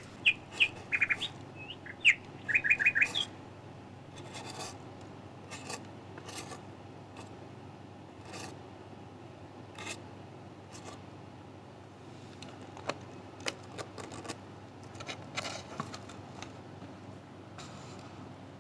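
A bird chirps in quick runs of short, high notes for the first three seconds or so. After that come scattered, soft, dry brushing strokes from a tiny straw broom sweeping scraps across a miniature wooden floor.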